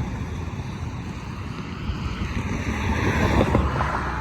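Wind buffeting the microphone while on the move, a steady low rumble with a rushing hiss over it that swells a little about three seconds in.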